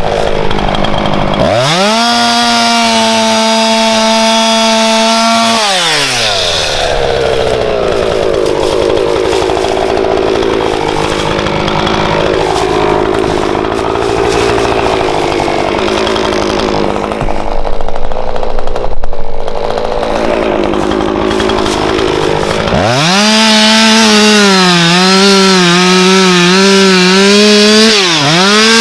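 Husqvarna two-stroke chainsaw revving high at full throttle, then pulling down to a lower, wavering pitch under load as it saws through a log for most of the stretch. Near the end it revs free again with a slight wobble, then drops back.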